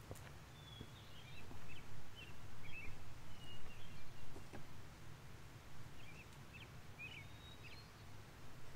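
Small birds chirping and giving short whistles in two bursts, over a low steady rumble of wind. The first burst spans the first three seconds, the second falls around six to eight seconds in.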